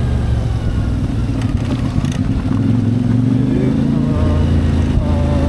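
CFMoto 450MT motorcycle's parallel-twin engine running under way. The engine note climbs for a second or so mid-way, then drops back to a lower, fuller note about four seconds in.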